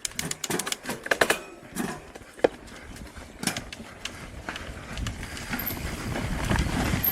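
Mountain bike rolling over a rocky trail: a quick run of clicks and knocks, then a rumble of tyres and wind that builds from about five seconds in as the bike picks up speed.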